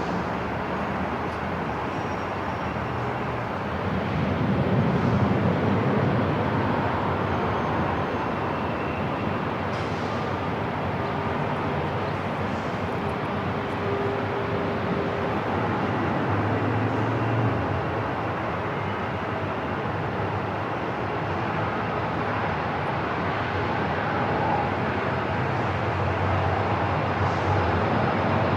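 Airport ambience: a steady noisy rumble and hiss, with a swell about four to six seconds in and a few faint short tones over it.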